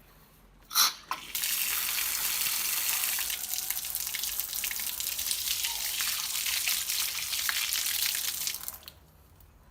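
Water running hard from a faucet fitted on a PVC pipe, after a short sharp sound as the flow starts about a second in. The flow holds steady for about seven seconds, then stops abruptly.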